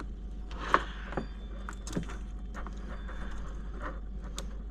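Scattered sharp clicks and light taps from small screws, a driver and RC car parts being handled while screwing a part onto the chassis, over a faint steady low hum.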